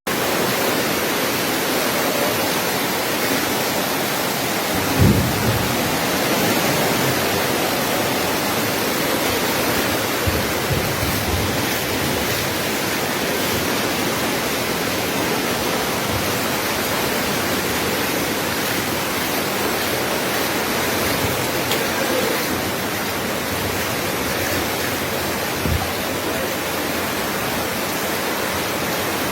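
Swollen river, high with heavy rain, rushing steadily as one loud, even wash of water noise. A few brief low thumps come about 5, 10 and 26 seconds in.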